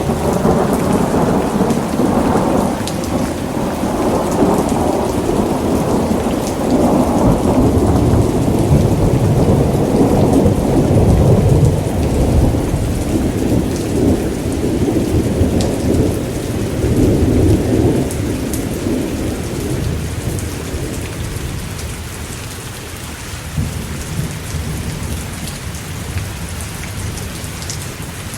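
Thunderstorm: steady heavy rain with a long rolling rumble of thunder that starts right away, swells over the first 18 seconds or so and then dies away, leaving the rain alone near the end.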